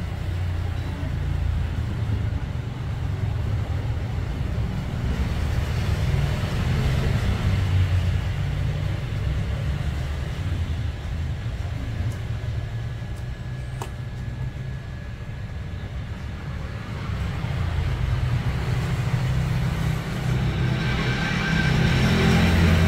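Small CNC router running while milling a circuit board: a steady, low motor hum, with a faint high whine in the middle stretch and a single click.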